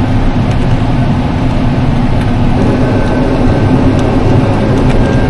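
John Deere combine harvester running steadily, a loud even drone of engine and machinery with a low hum throughout.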